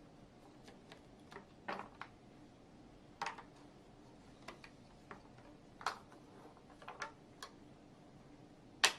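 Scattered light clicks and taps, about a dozen at irregular intervals, the sharpest one near the end.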